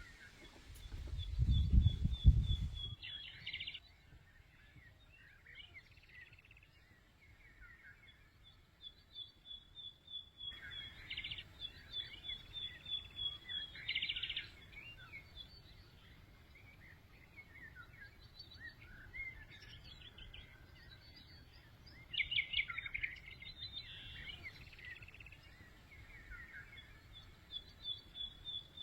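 Songbirds singing: repeated high, fast trills with scattered chirps between them. In the first few seconds a loud low rumble sits under the birdsong.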